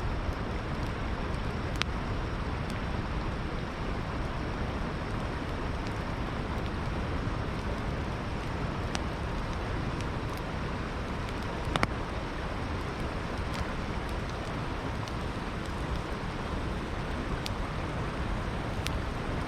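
Steady rushing of a flowing river, with a campfire crackling now and then over it in sparse single pops, one louder pop about twelve seconds in.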